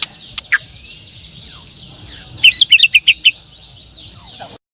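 A chorus of white-rumped shamas (murai batu) and other songbirds singing at once: a thick weave of chirps and whistles, with a nearer bird giving loud whistled phrases, a quick run of them in the middle and another near the end. The sound cuts off suddenly just before the end.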